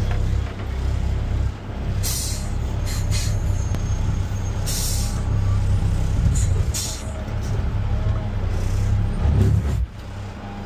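Garbage truck's diesel engine running with a steady low drone, broken by several short hisses of air from the air brakes; the engine sound drops away near the end.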